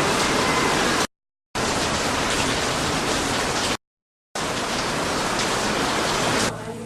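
A steady, loud hiss of even noise, like static, broken twice by sudden gaps of complete silence, about one second and about four seconds in. Near the end the hiss stops and quieter music begins.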